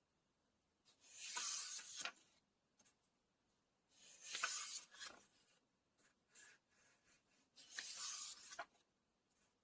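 Pages of a book being turned, three times about three seconds apart: each turn a rustle of about a second that ends in a sharp flick.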